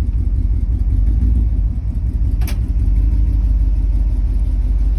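Classic Mopar car's engine running with a steady low rumble, heard from inside the cabin, with a single sharp click about two and a half seconds in.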